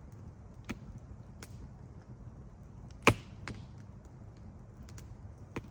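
A few sharp knocks or clicks over a low steady rumble; the loudest comes about three seconds in, and there is a smaller one near the start and another near the end.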